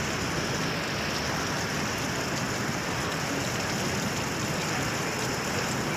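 Heavy rain pouring steadily, an even hiss with no breaks.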